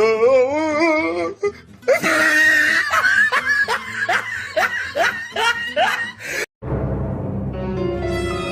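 Exaggerated comic laughter with music, in repeated quick swooping bursts about two a second, which cuts off abruptly about six and a half seconds in; a low, steady, eerie music drone then starts.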